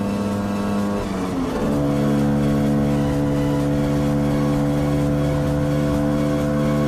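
Scooter engine running under way; its note drops about a second and a half in, then holds steady and a little louder.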